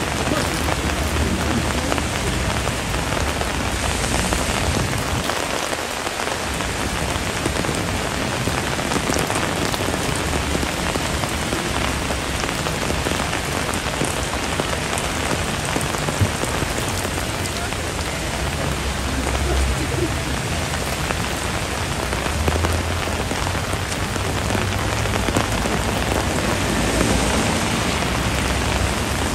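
Heavy rain falling steadily, a dense even hiss of drops hitting surfaces, with a low rumble coming and going underneath.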